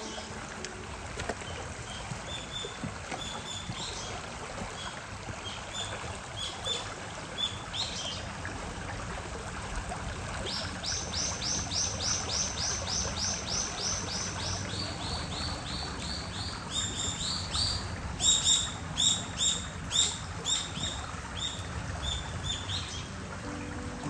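A shallow stream running steadily, with a bird singing high chirps over it: scattered notes at first, then fast runs of repeated chirps through the second half.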